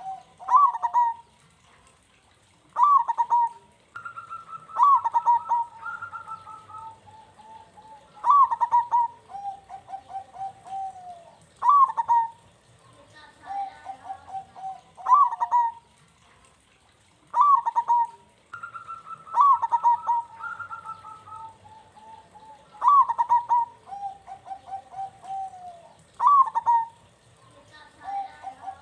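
Zebra doves (perkutut) cooing: a phrase of quick stuttering notes followed by a drawn-out trailing coo, repeated about every three seconds, with calls at times overlapping.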